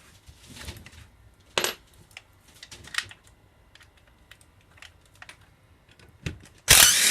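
Metal tools and small parts clinking and clicking on a workbench, with a sharp ringing clink about a second and a half in, then a short burst of a cordless drill near the end.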